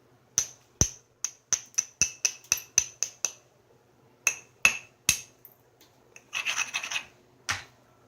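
A hammerstone tapping the edge of a stone preform in quick light strikes, each a sharp ringing click, to set up striking platforms. After a short pause come three more taps, then a brief run of fast scraping as the edge is abraded, and a final tap near the end.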